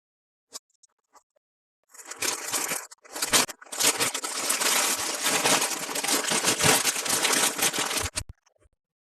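Toy packaging being handled and torn open: a light click, then about six seconds of loud, dense crinkling and tearing with a short break near the start.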